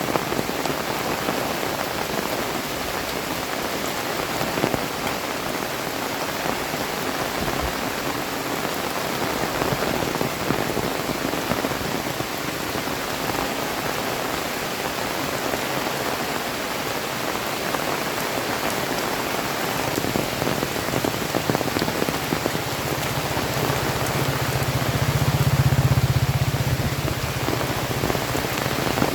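Heavy rain falling steadily in a dense hiss. Near the end a low rumble swells and fades over a few seconds.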